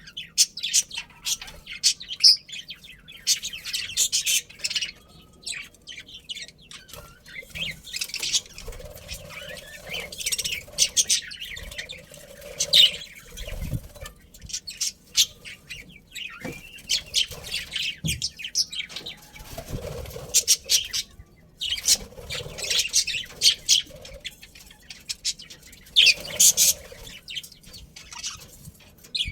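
A flock of budgerigars chattering, with many quick, high, overlapping chirps throughout.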